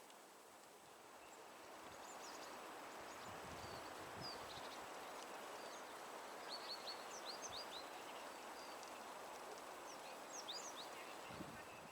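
Faint forest ambience: a steady rushing background with small birds giving short, high chirps, several in quick succession about six and a half seconds in and again near the end.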